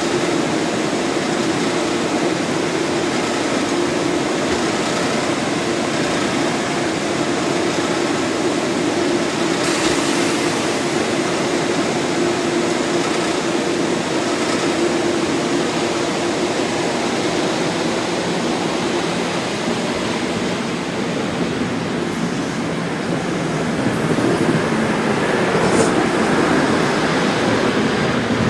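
NJ Transit commuter train standing at the platform, its equipment running in a steady hum. In the last few seconds it starts to roll out and the noise grows louder and rougher.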